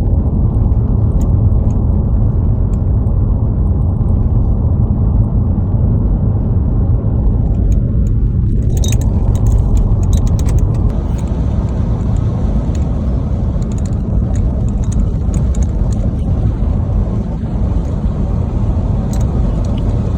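Steady low road and engine rumble heard from inside a moving car, with a few light rattling clicks about midway and near the end.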